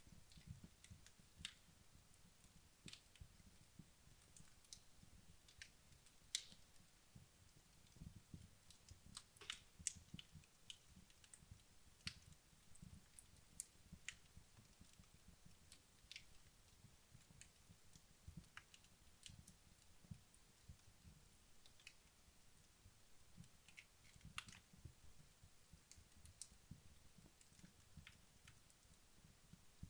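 Wood logs burning in a fireplace, crackling faintly: scattered sharp pops and snaps at irregular intervals over a soft low flutter of the flames.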